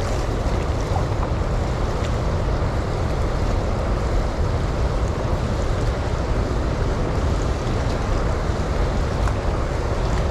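Steady rushing noise of high water at the dam's flood gates and waves, with wind buffeting the microphone.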